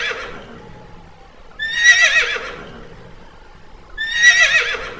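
A horse whinnying: two full whinnies about two and a half seconds apart, each about a second long with a wavering pitch that falls away, after the tail of one more at the very start.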